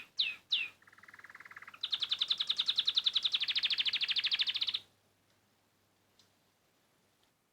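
Songbird singing: two quick high notes that sweep downward, then a softer, lower rapid trill, then a loud, fast, high trill lasting about three seconds. The song stops abruptly about five seconds in.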